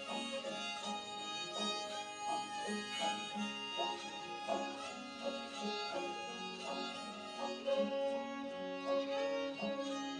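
Instrumental break by a string band, a fiddle carrying the melody over strummed and plucked strings.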